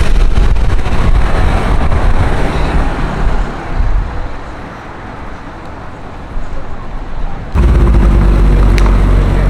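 Street traffic with a car passing, fading over the first few seconds. About three-quarters in it cuts suddenly to a louder car engine running with a steady low note.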